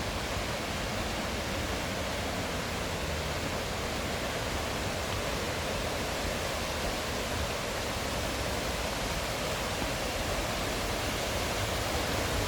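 A mountain stream and waterfall rushing steadily, an even wash of water noise.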